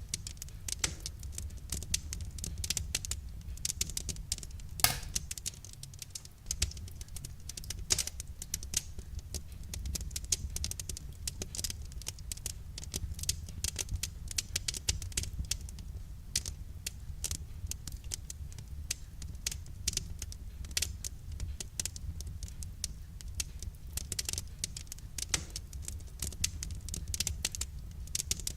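Wood fire crackling in a fireplace: a steady low rumble under dense, irregular pops and snaps, with a few sharper, louder pops, the loudest about five seconds in.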